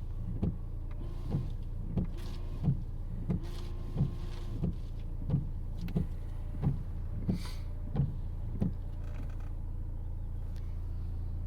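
Car windscreen wipers sweeping back and forth: the wiper motor whines and each blade reversal gives a knock, about one and a half a second, until the wipers stop about nine seconds in. A steady low engine hum runs underneath.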